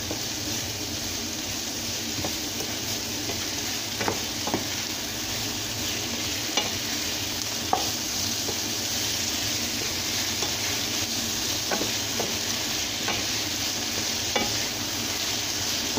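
Sliced zucchini and onion sizzling as they fry in a pan, stirred with a wooden spatula that knocks against the pan now and then.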